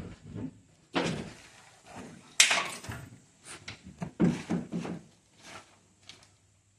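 A string of separate clunks and knocks from parts being handled inside a Jeep Wrangler's cab, the loudest about two and a half seconds in.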